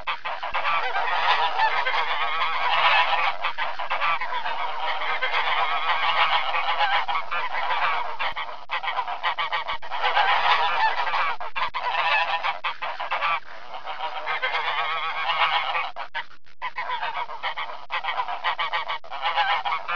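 A flock of greater flamingos honking and gabbling, many goose-like calls overlapping into a continuous din with only brief lulls.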